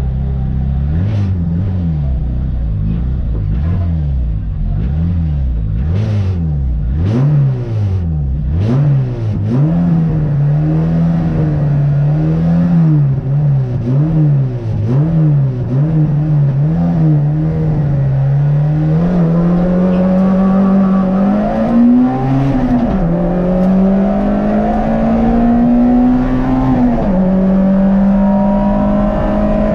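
A Peugeot race car's 1.4-litre engine heard from inside the stripped cockpit. The driver blips the throttle over and over, the revs rising and falling about once a second, with a few sharp clicks in between. After about 18 seconds the car pulls away at full throttle, and the revs climb and drop back at two upshifts.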